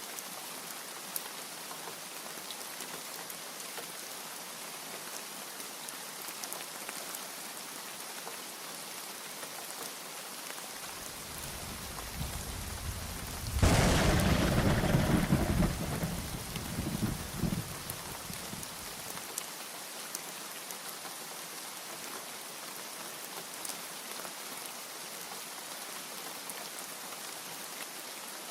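Steady heavy rain falling, with one thunderclap about halfway through: a low rumble building, then a sharp loud crack that rolls away over several seconds before the rain is left alone again.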